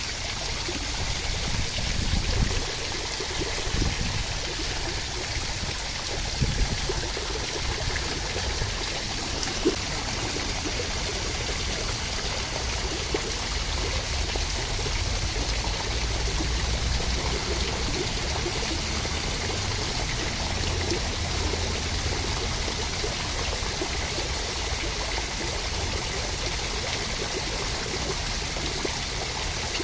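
Steady rushing water noise, a continuous rain-like or stream-like wash, with a few brief louder ticks in the first ten seconds.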